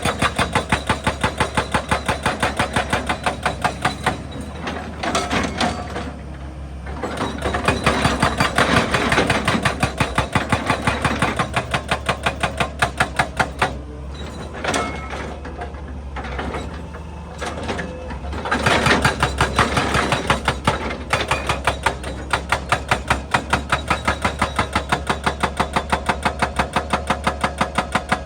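Excavator-mounted hydraulic breaker hammering rock in rapid, even blows over the running diesel engine. The hammering stops twice for a few seconds, leaving the engine running.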